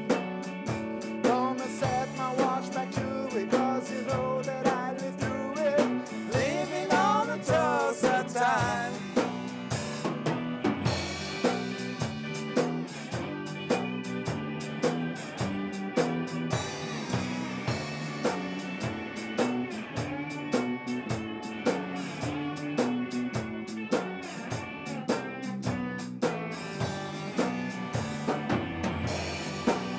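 A rock band playing an instrumental passage with a steady drum-kit beat, bass and electric guitar; a bending lead guitar line carries the first few seconds, then the guitars settle into held chords over the beat.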